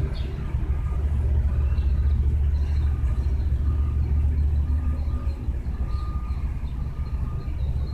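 Steady low rumble, with faint short high chirps over it.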